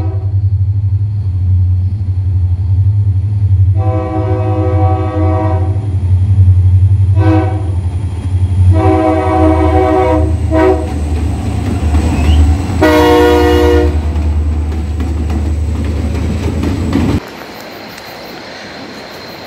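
Diesel locomotive passing close by with a loud low engine rumble, sounding its multi-tone air horn in a series of about five blasts: short, long, short, long, then a last one about a second long. The rumble stops abruptly near the end.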